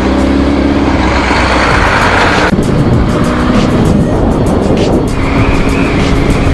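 Honda CBR600RR inline-four engine running at steady revs while riding, with wind and road noise. About two and a half seconds in the sound turns rougher, and background music with a beat comes in over it.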